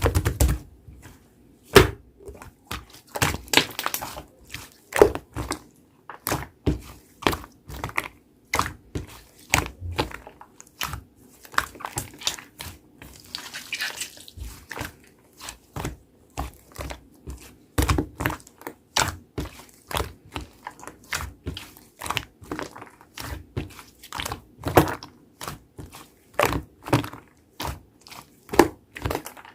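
Hands squishing and pressing slime: an irregular run of sharp pops and clicks, a couple to a few a second, as air pockets burst.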